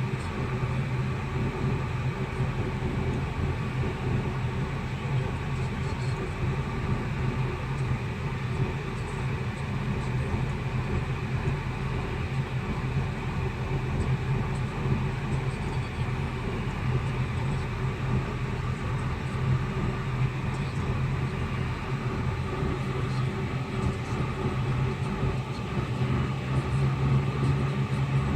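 Volkswagen Golf running with its air conditioning on: a steady mechanical hum with a constant low drone and a few higher steady tones, unchanged throughout.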